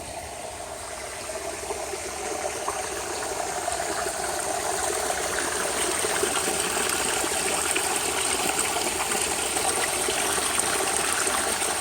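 Water running and trickling in a backyard pond, a steady splashing rush that grows louder over the first few seconds and then holds.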